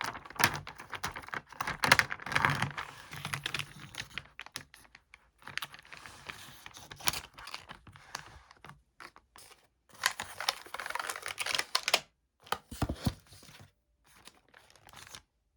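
Typing on a computer keyboard: irregular runs of quick key clicks broken by short pauses, thinning out near the end.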